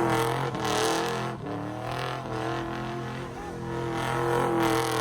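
1991 Chevrolet OBS pickup truck's engine running, its pitch steady with small wavers.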